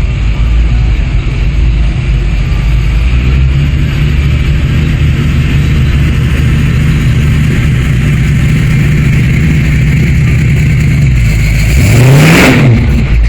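Car engines rumbling steadily as parade cars drive past, with one engine revved up sharply and back down near the end, the loudest moment.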